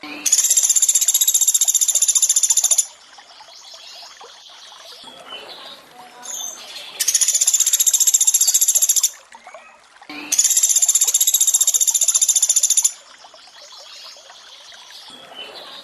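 Pelatuk beras calls: long, very fast high-pitched trills, each about two and a half seconds, three times in a repeating loop, over a quieter bed of running water with a few short chirps between the trills.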